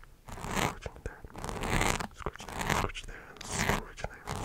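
Close-miked ASMR mouth sounds: irregular breathy bursts with sharp clicks in between.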